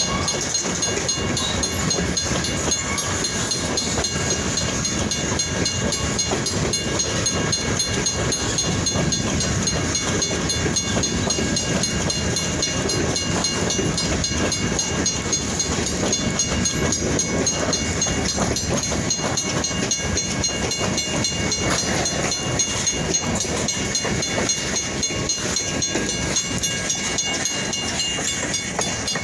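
Freight train cars rolling past close by: a steady rumble and clatter of steel wheels on rail that goes on without a break.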